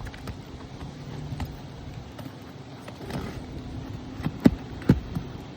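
Roofing nails being pulled from an asphalt shingle with a roof snake struck by a hammer: a few light knocks, then two sharp metal strikes half a second apart near the end, over a steady low hum.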